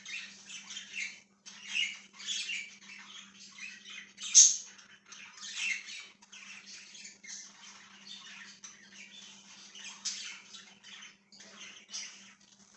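A flock of pet budgies chattering and chirping continuously in many overlapping calls, with one loud, sharp call about four seconds in. A faint steady low hum runs underneath.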